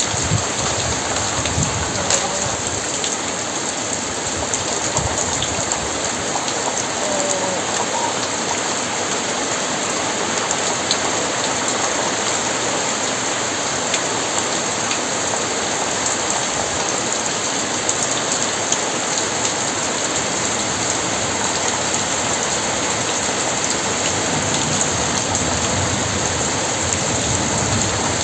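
Very heavy rain falling steadily, a dense even hiss of drops hitting the ground.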